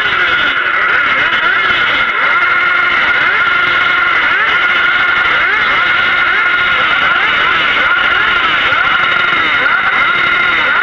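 Several motorcycle engines revving hard, over and over, their pitches rising and falling on top of one another.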